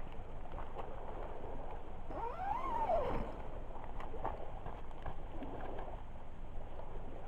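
Driftwood campfire burning with a steady hiss and a few sharp crackles and pops. About two seconds in comes a brief whistling tone, about a second long, that rises and then falls in pitch.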